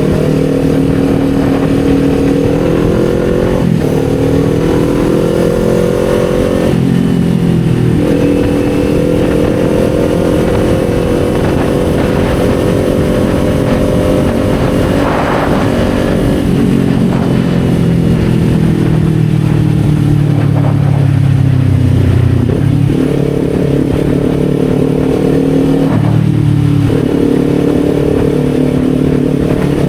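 Kawasaki Z400's parallel-twin engine pulling through the gears: its pitch climbs, then drops sharply at each shift, several shifts in the first eight seconds and more near the end. In the middle the pitch holds high and then falls for several seconds as the throttle eases off. Wind noise runs underneath.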